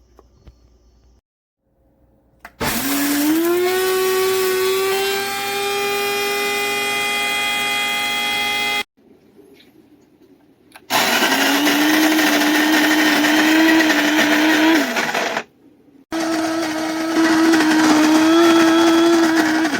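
Electric burr coffee grinder running three times, each time starting up and cutting off: a steady motor hum with the rattle of beans being ground. On the first run the hum rises in pitch for about a second as the motor spins up, and the runs last about six, four and four seconds.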